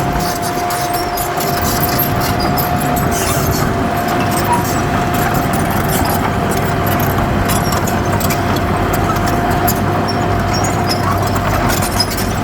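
Heavy diesel earthmoving machinery running steadily, a constant whine over the engine's low hum, with scattered light ticks and clatter.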